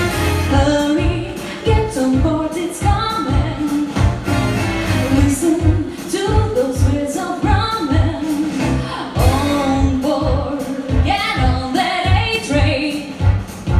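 A woman singing a jazzy pop number over band accompaniment with a steady, evenly pulsing bass beat.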